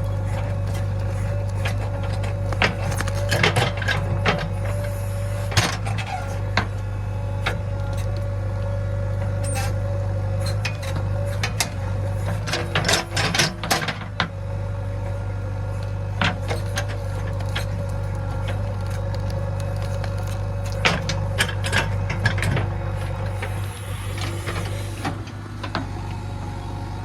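JCB 3DX backhoe loader's diesel engine running steadily, with irregular knocks and rattles over it, in clusters.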